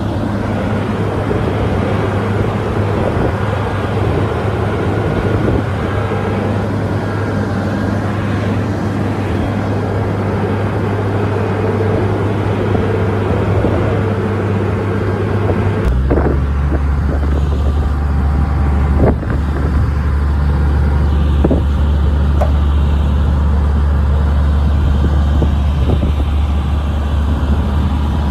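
Heavy diesel engine of an earthmoving machine running loud and steady with a deep drone. About halfway through, the drone drops abruptly to a lower pitch, and a few sharp knocks follow.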